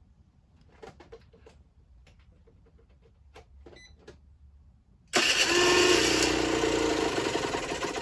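Generic Trigger SM 50cc two-stroke engine starting suddenly about five seconds in and running loudly and steadily, after a few faint clicks of handling.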